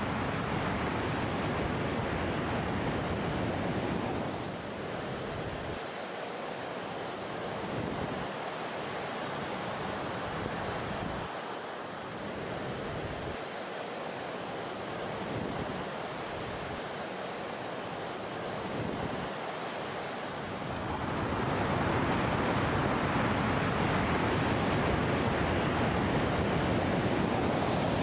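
Ocean surf: a steady rush of waves washing onto a beach, easing a little about four seconds in and building louder again in the last quarter.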